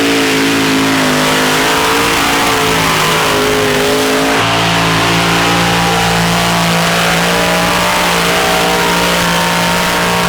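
Modified tractor-pulling machine's engine running flat out under load: a loud, steady engine note with a dense hiss over it, settling onto a new steady pitch about four and a half seconds in.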